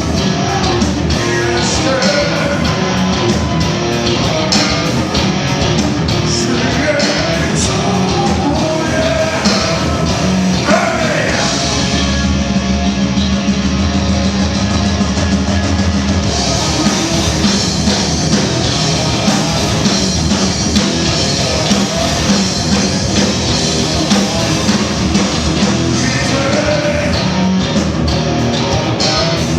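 Rock band playing live, with electric guitars, drums and a sung vocal line.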